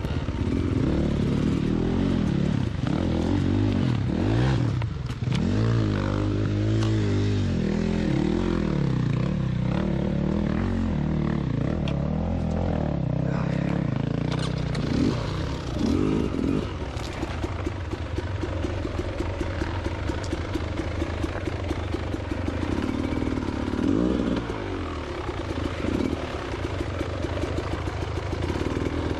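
Two-stroke engine of a Beta Xtrainer 300 dirt bike revving up and down over and over as it is ridden, with scattered knocks and rattles mixed in.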